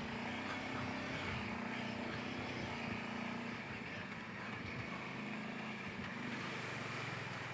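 Kawasaki Brute Force 750 ATV's V-twin engine running steadily at trail speed, its pitch shifting slightly as the throttle changes.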